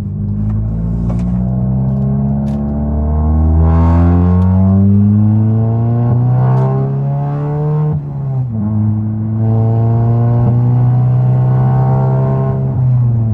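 Volkswagen Mk7 GTI's turbocharged four-cylinder accelerating hard, its engine note climbing for several seconds, dropping with an upshift about eight seconds in, then pulling up again. The exhaust sounds rough and loud; the owner says he ruined it with the new downpipe setup and likens it to a Detroit diesel.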